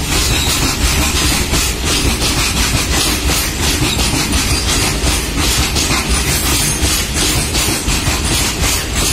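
Loaded open freight wagons of a goods train rolling past close by: a steady, loud rumble with repeated clacks of the wheels over the rail joints.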